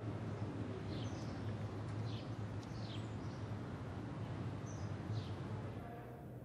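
Outdoor ambience: a steady low hum and background noise, with small birds giving several short, high chirps now and then. The ambience grows quieter near the end.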